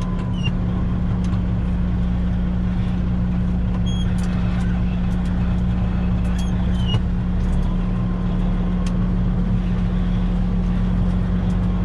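Steady hum of a semi truck's diesel engine, heard from inside the cab, with a slight change in its low drone about eight seconds in. A few faint squeaks and clicks come in over it.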